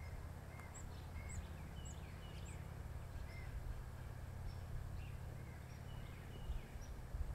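Bird calls, short high chirps and whistled notes, about two a second, over a steady low rumble.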